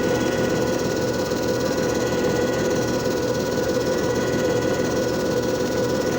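JFJ Easy Pro disc repair machine running steadily, its motor giving a constant hum with a few fixed whining tones.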